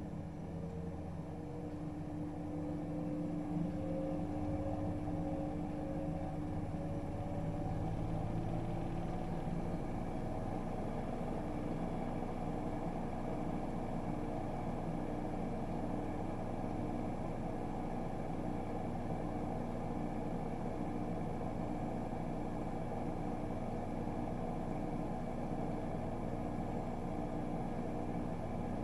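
AEG Öko-Lavamat 76910 washing machine spinning, its inverter-driven three-phase induction motor whining upward in pitch as the drum speeds up over the first several seconds, then holding a steady high-speed spin with a constant whine over a rumble.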